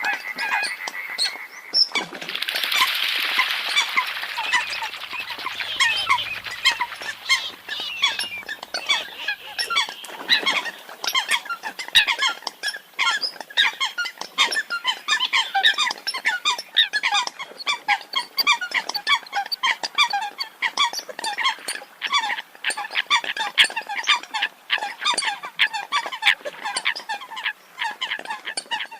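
A flock of Eurasian coots calling: many short, sharp calls overlapping densely, with a brief burst of noise about two to four seconds in.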